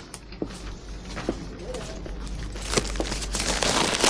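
Supermarket background sound: a few sharp clicks and knocks and faint distant voices, then a rustling, crinkling noise that grows about three seconds in.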